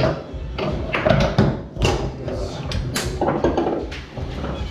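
Foosball play on a Tornado table: a run of sharp, irregular clacks as the hard ball is struck by the players' men and knocks against the table, with the rods rattling.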